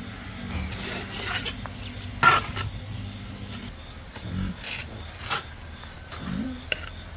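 Several rough scraping strokes and one sharp knock about two seconds in, over a steady high insect buzz; two short low grunt-like sounds near the end.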